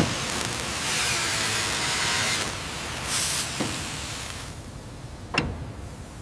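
A steady hiss, like a jet of air or spray, loudest for the first two and a half seconds. It then eases off gradually, with a short louder puff just past the middle and two sharp clicks in the second half.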